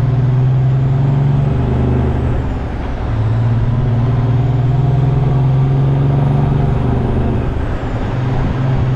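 Semi truck's diesel engine running steadily under way, its drone dipping briefly twice.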